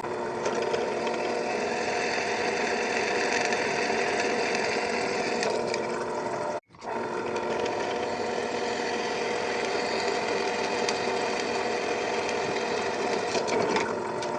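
An electric power tool's motor running steadily, with a brief break about seven seconds in.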